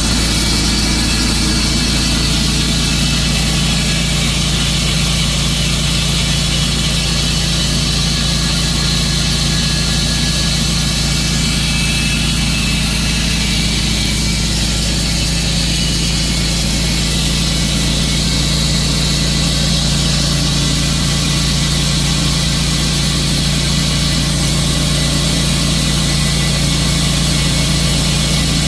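Sawmill engine running steadily with an even drone, its pitch shifting slightly about halfway through.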